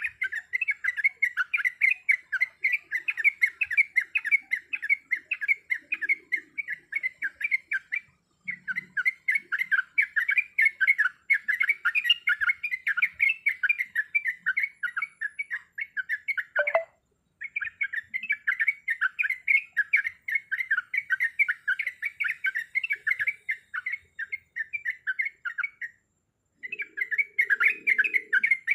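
Trucuk (yellow-vented bulbul) singing a long, fast rolling chatter of rapid notes, broken by three short breaks about every eight to nine seconds. One brief falling note sounds just before the middle break.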